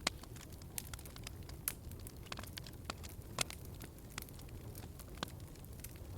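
Wood fire in a fireplace crackling: irregular sharp pops and snaps over a low steady rumble of the flames, with the loudest pops near the start and about halfway through.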